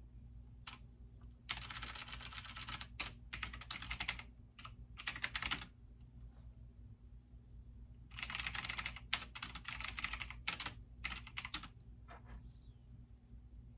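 Computer keyboard typing in several quick runs of keystrokes with short pauses between them, over a steady faint low hum.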